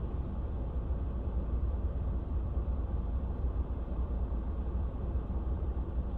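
Steady rumble of a car driving, heard from inside the cabin: engine and tyre noise, strongest in the low range, with no sudden events.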